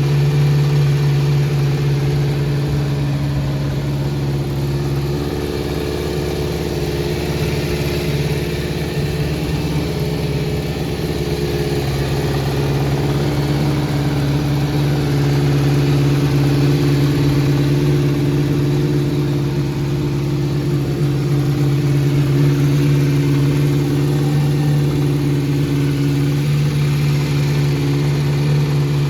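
Kawasaki Z400J's air-cooled four-cylinder engine idling through an aftermarket four-into-one exhaust, the idle unsteady for several seconds about five seconds in. The idle is uneven, which the seller puts down to carburettors needing adjustment.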